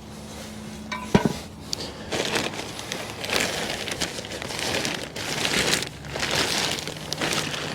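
Plastic trash bag rustling and crinkling as it is handled, in irregular swells, with a sharp knock about a second in.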